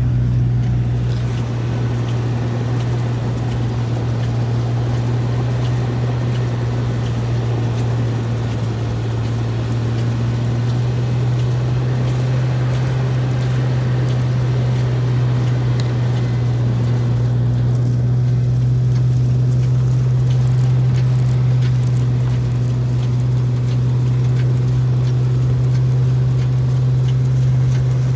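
Jeep Wrangler LJ engine running steadily under way while towing a trailer over snow, a constant low drone with road and tyre noise.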